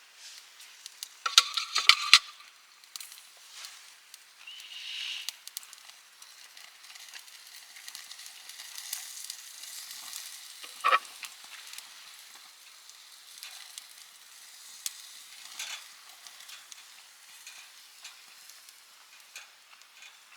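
Steady sizzling hiss over a wood fire, with scattered crackles, a quick run of sharp snaps about a second in and a single loud pop near the middle.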